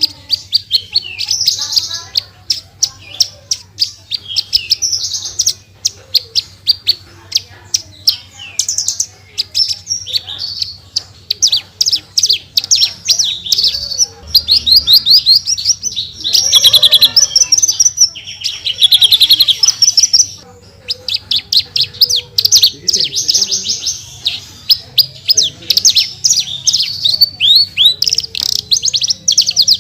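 Branjangan (Australasian/Horsfield's bush lark) singing without pause: a fast, high-pitched stream of chirps, trills and rapid-fire note runs ('tembakan') mixed with sharp clicks.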